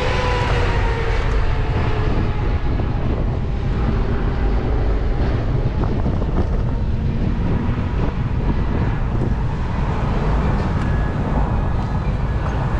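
Steady wind rumble on the microphone from riding a bicycle, with a faint whine that fades out about a second in.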